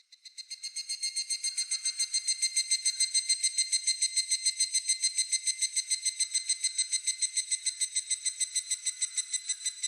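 A higurashi (evening cicada) singing: a long, high, rapidly pulsed call of about eight notes a second that builds over the first two seconds and then holds steady until it stops at the end.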